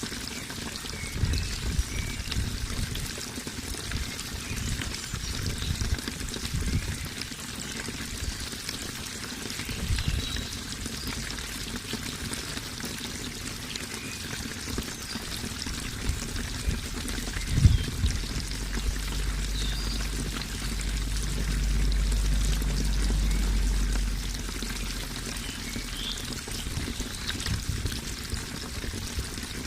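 Water running and splashing steadily, like a stream or small cascade. Low thuds come through now and then. A deeper rumble swells for a few seconds just past the middle.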